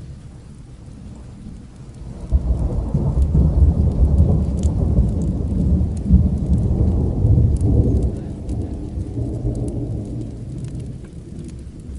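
A long roll of thunder over steady rain: the deep rumble swells about two seconds in, stays loud for several seconds, then slowly fades. Light scattered crackles sound over it.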